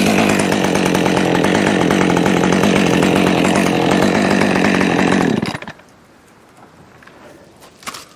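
Chainsaw running at high revs, cutting wood. The engine note falls away suddenly about five and a half seconds in, leaving only a few faint clicks.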